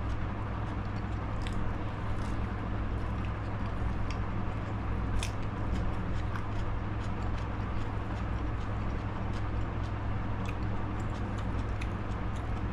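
A person chewing and biting food, with scattered small crisp mouth clicks, one more distinct about five seconds in, over a steady low hum of background noise.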